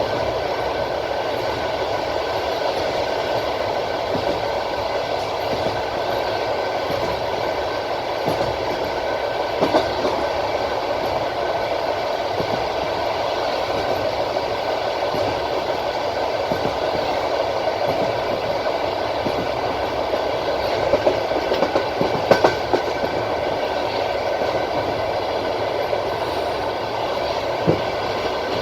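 Passenger train's wheels rolling over the rails at speed: a steady running noise, with a few sharp clacks over rail joints, a cluster of them a little past the middle and another near the end.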